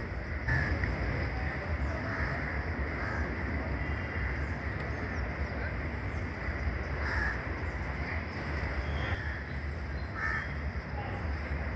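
Crows cawing now and then, short separate calls every second or two, over a steady low rumble of outdoor background noise.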